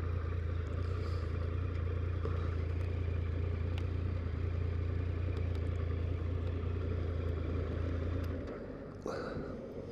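Triumph Sprint GT's three-cylinder engine idling steadily, then switched off about eight seconds in. A short clunk follows about a second later.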